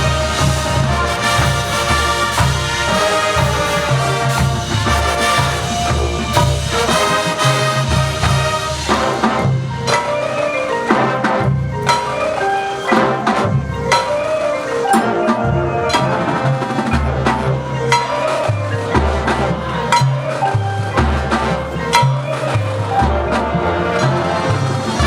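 High school marching band playing, brass and drum line together. Partway through, the horns thin out and the percussion comes forward for several seconds before the full band returns.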